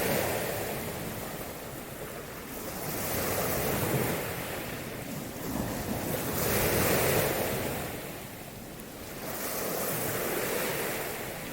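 Ocean surf washing in and out, the noise swelling and falling away about every three to four seconds, with some wind rumbling on the microphone.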